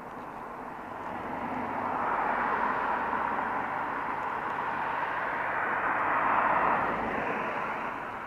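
A passing vehicle: a rushing road noise that swells over a couple of seconds, holds, and fades away near the end.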